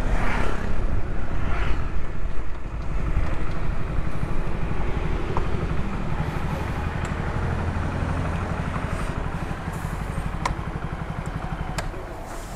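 Small commuter motorcycle engine running as the bike rides in and slows to a stop, then idling more quietly.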